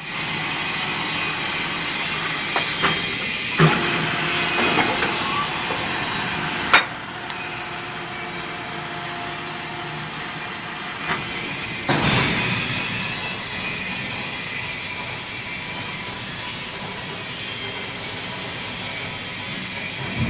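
Steady industrial machinery noise with a hiss, broken by a few sharp metallic knocks, the loudest about seven seconds in.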